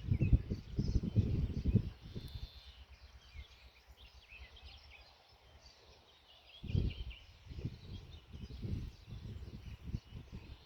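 Songbirds chirping and singing in short repeated phrases, over a low rumble that comes and goes, loud for the first two seconds and again from about seven seconds in.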